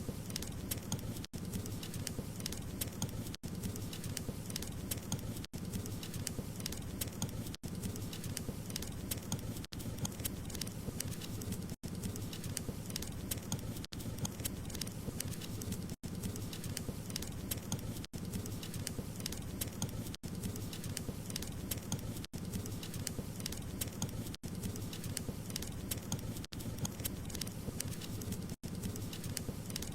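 Wood fire crackling: a dense run of small pops and snaps over a low rumble of burning. It is cut by very brief dropouts about every two seconds.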